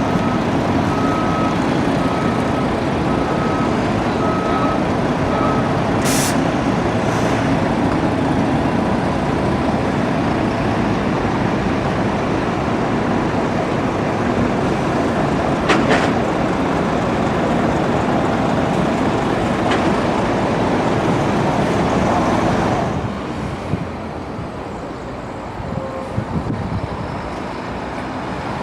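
City bus diesel engine running steadily, with a repeating electronic beep for the first few seconds and a short hiss of air about six seconds in. The engine sound drops quieter near the end.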